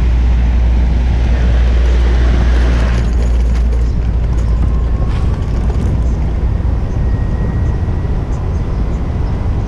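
Wind rumbling on a GoPro's microphone as a bicycle rides along a city street, over steady street-traffic noise. The heavy low rumble eases about three and a half seconds in.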